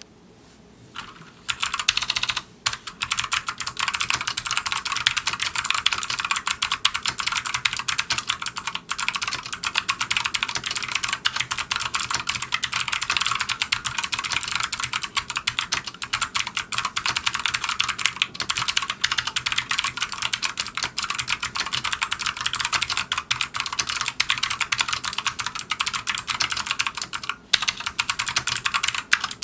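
Micronics MANIC X50 gaming keyboard with optical switches and PBT keycaps, typed on fast in a dense stream of key clicks. The typing starts about a second and a half in and breaks off briefly twice, once near the start and once near the end.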